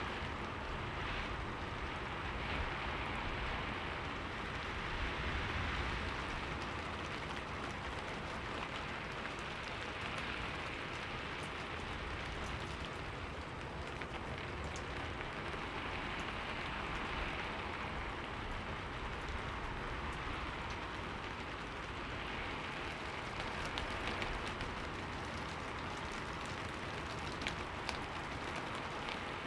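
Steady rain falling on a window pane and surfaces, an even hiss with scattered light drop ticks.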